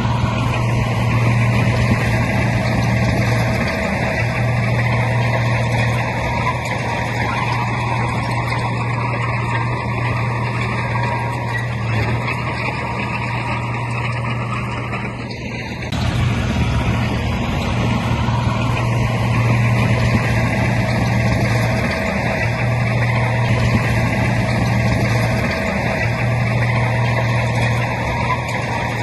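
Heavy diesel earthmoving machinery, a bulldozer and dump trucks, running steadily with a deep engine drone. There is a short dip and a sudden change in the sound about halfway through.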